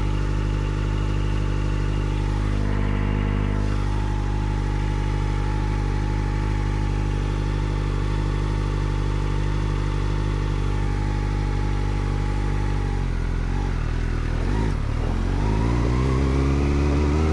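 Kawasaki Ninja ZX-4RR's inline-four engine through an Arrow titanium race exhaust with the dB killer fitted, running at a steady speed. About 13 seconds in the pitch drops, then it revs up again in a rising pull near the end.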